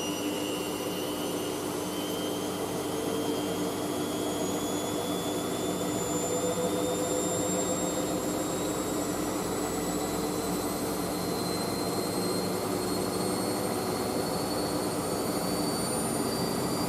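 Hoover SIX washing machine spinning on its final spin: a steady drum and motor rush with a motor whine that climbs slowly in pitch as the drum gathers speed.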